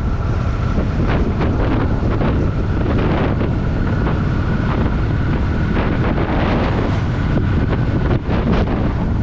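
Wind buffeting the microphone of a Honda Shadow VT750 at riding speed, over the low, steady run of its V-twin engine. The noise holds steady, with a brief dip about eight seconds in.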